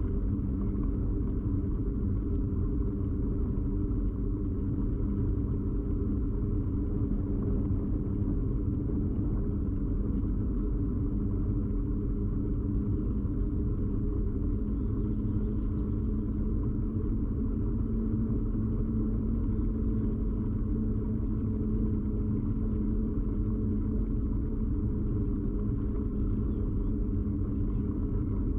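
Steady low rumble of a bicycle ride picked up through a camera mounted firmly on the bike frame: road and tyre vibration carried through the frame, with a faint hum underneath.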